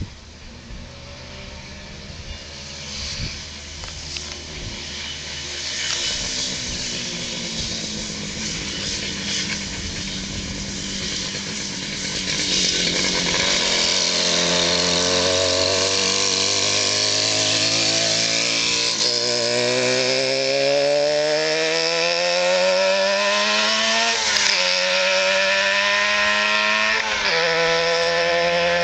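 1967 Yamaha YDS3 motorcycle's 250 cc two-stroke twin engine running on the road, fainter at first and much louder from about halfway as it comes near. Its note then climbs steadily under acceleration, dipping twice near the end as it changes gear.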